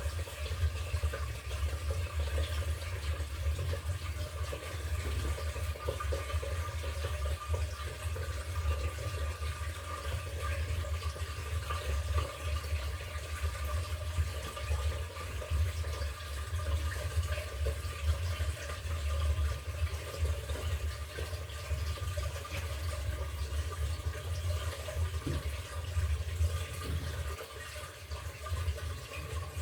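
LG top-load washing machine with water rushing and splashing inside the tub, steady throughout over a constant low hum.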